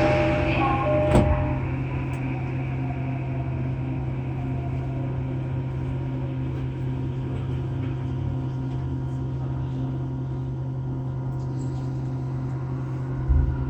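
Inside a JR East E231 series 800 commuter train car: a two-tone chime, the door chime, ends about a second in, with a sharp knock as the doors shut. After that comes a steady low hum from the train's electrical equipment.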